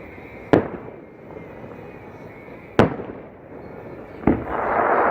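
Aerial fireworks: three sharp booms about two seconds apart, the last followed by a dense crackling that builds near the end.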